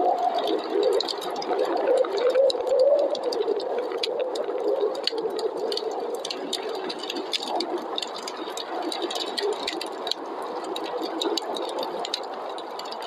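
Wood fire crackling with many small sharp pops over a steady snowstorm wind; during the first few seconds the wind carries a tone that wavers up and down.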